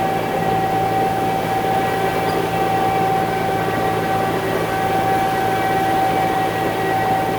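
Concrete mixer truck's diesel engine running steadily: a constant low drone with a strong steady whine above it.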